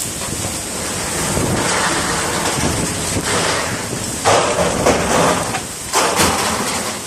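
Strong gusting wind with hail, a dense noise that comes in surges, loudest about four seconds in and again around six seconds.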